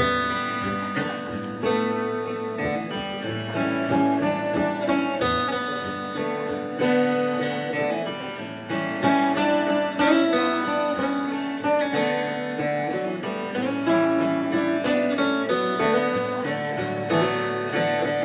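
Acoustic guitar playing an instrumental song intro: chords strummed and picked in a steady rhythm.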